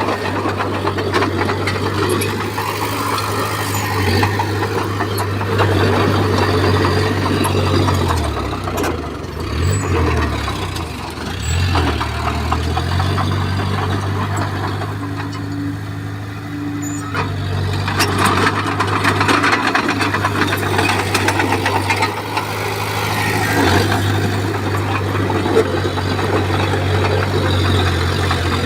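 Komatsu bulldozer's diesel engine running under load, with scraping and knocking as it pushes soil and stone. About a third of the way in, the engine pitch drops and recovers several times before settling back to a steady run.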